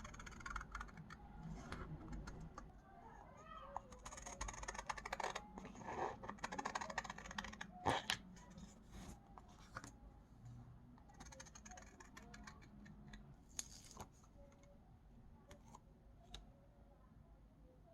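Faint tapping, clicking and rustling of small items being handled on a desk, with one sharper click about eight seconds in.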